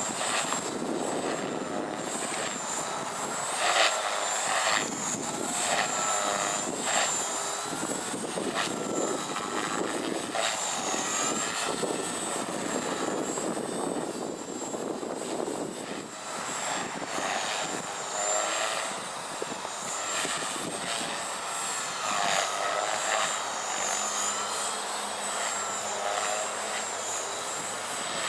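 Oxy3 Tareq Edition electric RC helicopter on a 3S battery flying 3D aerobatics. Its high motor whine and rotor blade noise waver up and down in pitch as it manoeuvres, with strong wind on the microphone.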